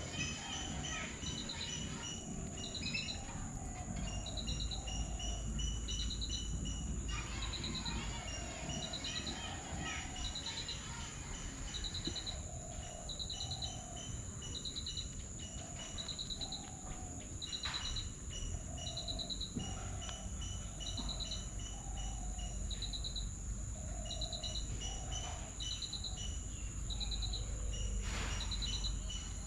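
Birds calling: a short trilled note repeated about once a second, with softer, lower calls between, over a steady high insect drone.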